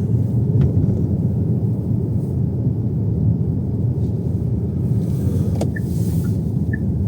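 Steady low road and engine rumble inside a moving car's cabin. Near the end, faint short pips alternate between two pitches about twice a second.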